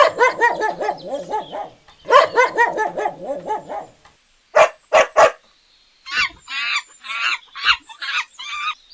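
A string of different animal calls: two runs of rapid pulsing calls, three short sharp calls a little after the middle, then a quick series of higher calls near the end.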